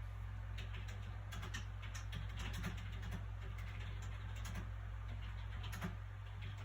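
Soft, irregular clicks and taps from hands handling a paper book, scattered through most of the stretch, over a steady low hum.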